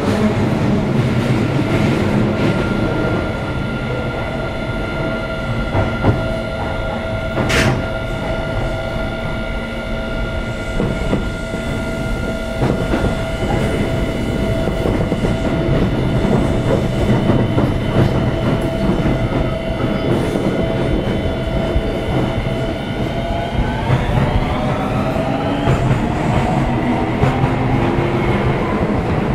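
Keio 7000-series train running, heard from inside the car: wheel and track rumble under a steady multi-tone motor whine. The whine rises in pitch about 24 seconds in and holds higher as the train picks up speed. There is one sharp click about 7 seconds in.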